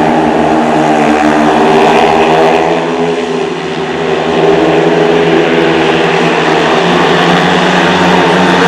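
Speedway motorcycles' single-cylinder, methanol-fuelled engines running hard during a race, several bikes together. The sound dips a little about three seconds in and builds again.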